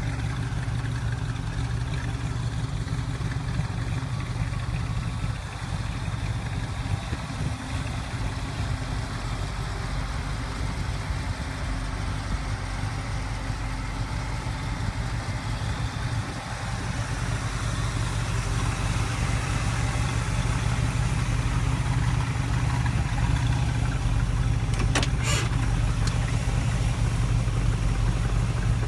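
Small-block 350 Chevy V8 in a 1972 Chevrolet Vega, running steadily at idle. It gets louder about two-thirds of the way through, and there are a couple of short clicks near the end.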